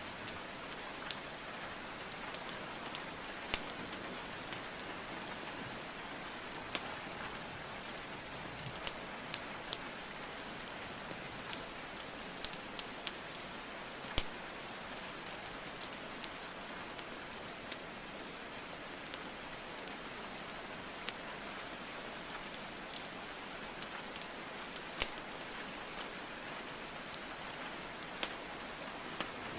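Steady rain hiss mixed with scattered, irregular sharp pops and crackles of burning wood logs in a fireplace.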